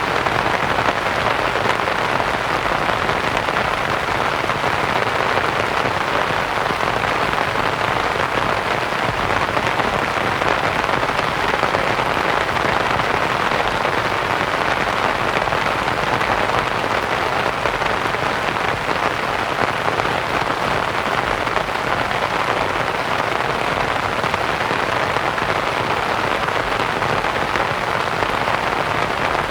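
Steady rain pattering on a canvas tent, mixed with soft white noise, an even unbroken hiss.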